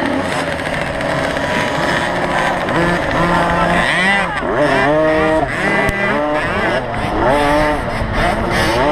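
Several small two-stroke youth motocross bikes racing, their engines revving up and dropping back again and again in overlapping rising and falling whines as they go through the gears.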